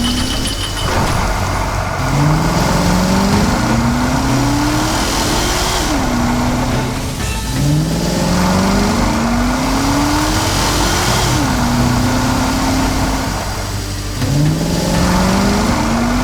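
Vehicle engine sound effect accelerating. The pitch climbs in steps as if shifting up through the gears, then drops back, and the rev-up repeats about three times.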